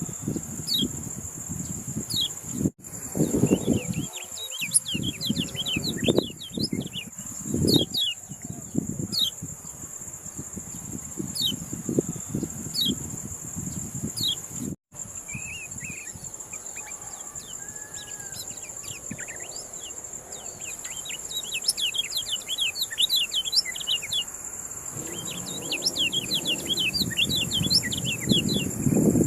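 Kecial kuning (lemon-bellied white-eye) singing: a fast run of short, high, falling chirps, spaced out at first and crowding together near the end. A steady high insect whine runs underneath, with low rumbling now and then.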